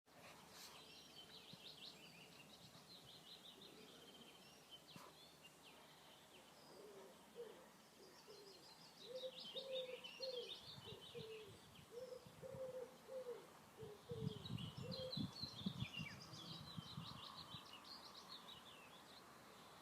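Songbirds twittering in bouts of rapid high chirps, with a lower bird call repeated about twice a second through the middle. Some low rumbling comes a little past the middle.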